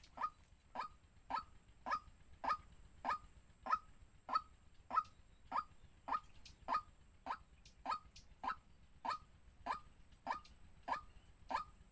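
A bird calling over and over in a steady rhythm: short, sharp notes, a little under two a second.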